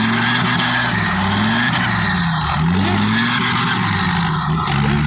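Dump truck's diesel engine revving up and down over and over, its pitch rising and falling several times, as the truck works through deep mud.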